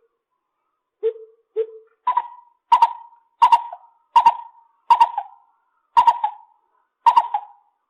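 Lesser coucal calling: two low notes, then a series of seven higher notes evenly spaced about 0.7 s apart.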